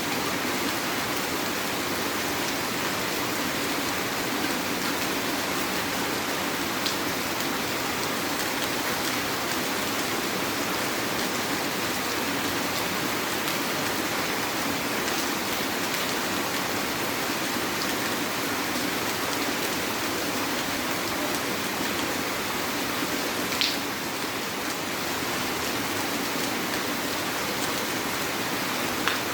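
Heavy rain falling steadily, an even hiss with a few louder drops or ticks standing out now and then.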